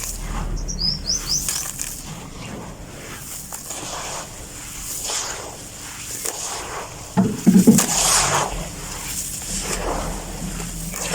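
Grainy cement-like shapes being crushed and crumbled, a crackling, crunching rustle with a louder burst of crumbling about seven seconds in. A bird chirps a few quick rising notes about half a second in.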